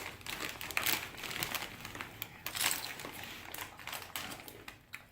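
A plastic bag of paprika potato chips crinkling and crackling as it is handled, with irregular sharp crackles that thin out near the end.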